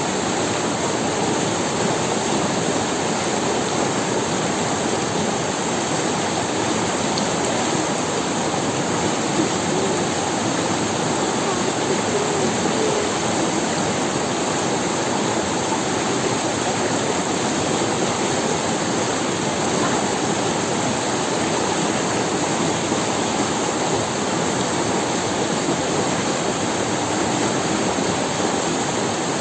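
River water running over stones: a steady, even rush.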